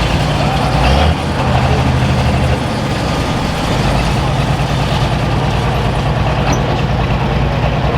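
Heavy pulling tractor's engine running steadily with a deep note, changing pitch briefly about a second in and again a little later.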